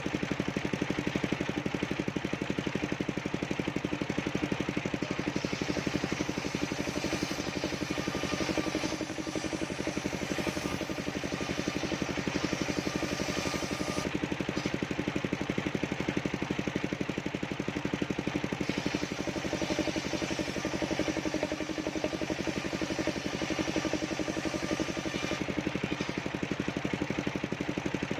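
Engine-driven mobile circular saw running steadily, its engine beating fast and evenly throughout. A higher hiss rises twice, for several seconds each time, as the blade cuts through sengon wood.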